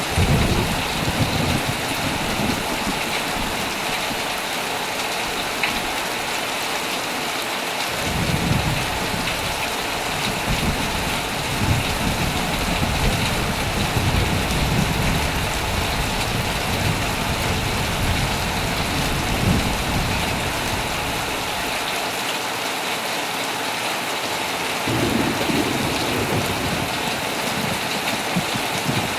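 Heavy, steady rain falling, with low rolling thunder rumbling at the start, again through a long stretch beginning about eight seconds in, and once more near the end.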